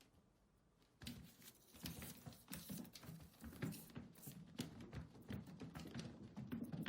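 A cat's paws pattering on the track of a cat exercise wheel as it runs, a quick irregular run of soft taps. They start about a second in, after a moment of near silence.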